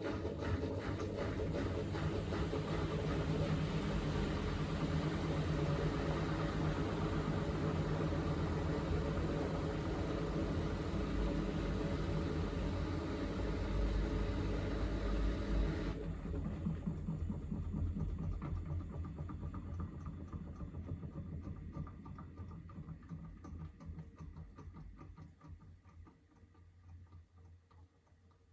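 Miele W3985 WPS washing machine spinning its drum in a short interim spin burst after the first rinse. About halfway through, the motor's higher sound cuts off suddenly, and the drum coasts down, the running sound fading away gradually.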